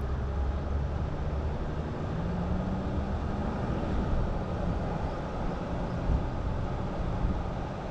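A vehicle being driven: steady engine and road noise.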